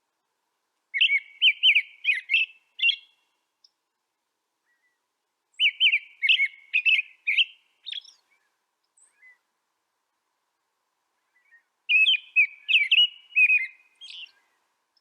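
A songbird singing three short warbled phrases of quick, clear notes, each about two seconds long, with a few seconds of silence between them.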